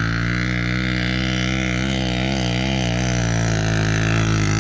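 Motorcycle engine running loud and steady, its pitch wavering slightly in the middle.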